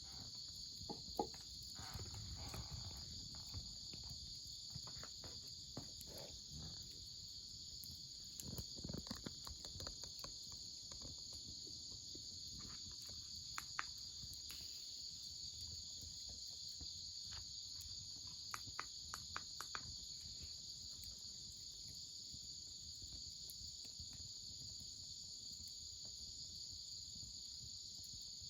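A steady, high-pitched chorus of singing insects, faint but constant. Scattered sharp clicks and knocks come in small clusters now and then.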